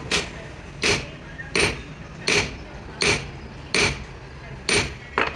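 A hammer striking in a steady rhythm, about eight blows a little under a second apart.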